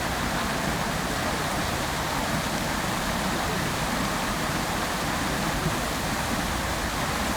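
Garden fountain's water jets falling and splashing into the basin: a steady, even rush of water.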